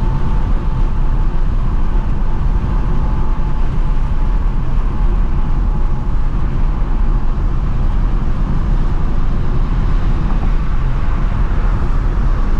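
Stock 2024 Ford Mustang GT's 5.0-litre V8 with active exhaust, a steady low drone at an even cruise with no revving, mixed with tyre and wind noise.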